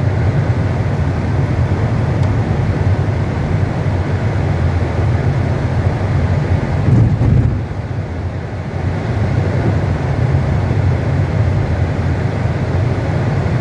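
Steady low rumble of a car on the move, heard inside the cabin. It swells briefly about seven seconds in and eases just after.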